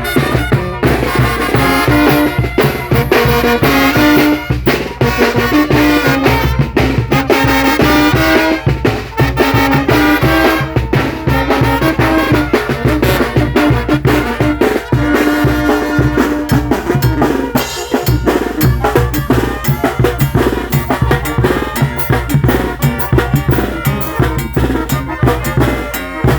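Mexican brass band (banda de viento) playing: a brass melody over drums and cymbals. About two-thirds of the way through, the melody drops back and the drums carry on.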